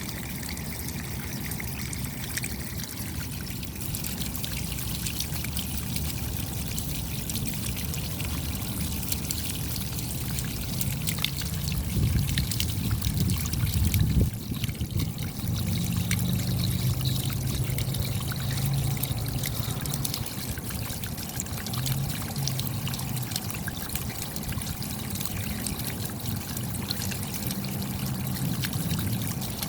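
Rain falling, with many separate drops ticking and water trickling and pouring. A deeper low rush of water swells about a third of the way in and dips briefly around the middle.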